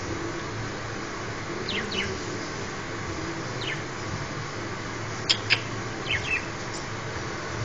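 Budgerigars giving short chirps that fall quickly in pitch, in a few scattered singles and pairs, over a steady low hum.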